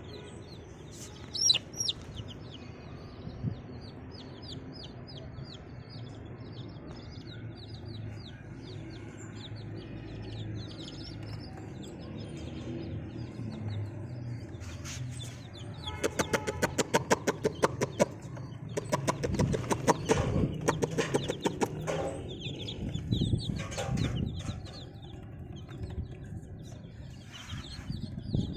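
Baby chicks of a desi hen peeping over and over, many short high falling chirps. About halfway through, a run of rapid, evenly spaced taps sets in, followed by several louder bursts.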